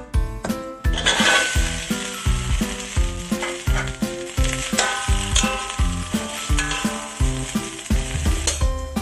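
Food sizzling in a hot pan, starting about a second in and dying away near the end, over background music with a steady beat.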